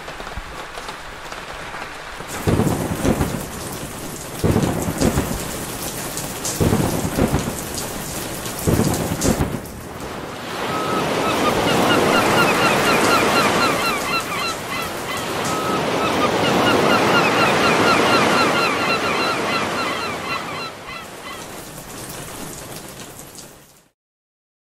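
Rain and thunder: a steady rain hiss with heavy low rumbles every couple of seconds, then a long swelling rush with rapid repeated chirping over it, cutting off abruptly near the end.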